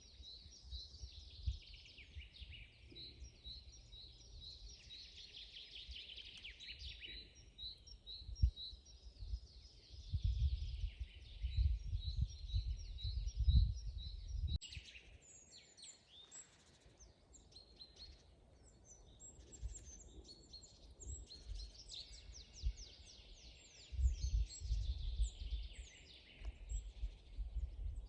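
Songbirds singing in a forest: a string of quick repeated high notes at first, then mixed trills and chirps. Twice a low rumbling noise swells up under the birdsong for a few seconds and is the loudest sound.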